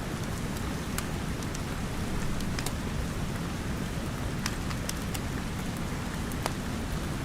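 Steady rain falling, with scattered sharp crackles and pops from a wood fire at irregular moments.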